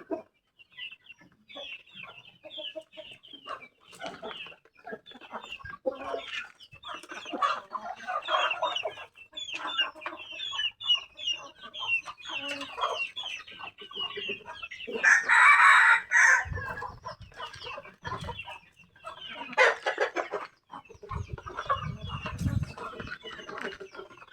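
A flock of Bangkok gamefowl clucking and chirping continuously, with a rooster crowing loudly about fifteen seconds in and another loud call near twenty seconds. Low rumbling noise comes twice in the second half.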